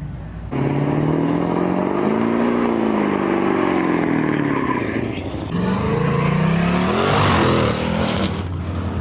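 A car engine revving hard: its pitch climbs and falls back, then climbs again about five seconds in. A loud rushing hiss runs over the second rev.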